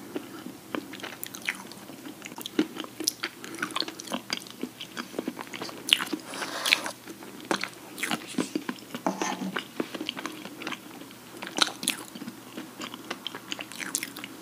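Close-miked eating of chocolate dessert: biting and chewing with irregular crunches and sharp mouth clicks.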